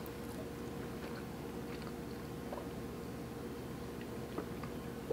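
Faint chewing of a donut, a few small soft mouth clicks over a steady low hiss.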